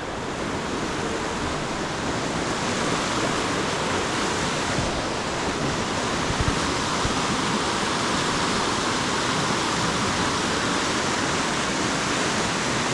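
Steady rush of river rapids and a small waterfall, an even wash of falling water.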